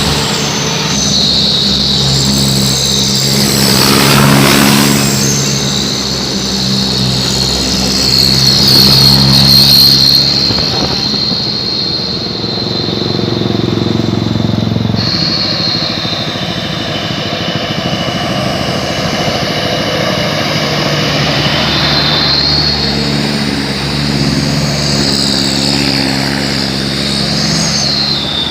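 Truck engines running through Sulawesi-style 'chung Takalar' modified exhausts, a deep 'dobol dobol' note as the trucks pass and pull. The sound swells twice, about four seconds in and again around nine to ten seconds, then settles to a steady drone.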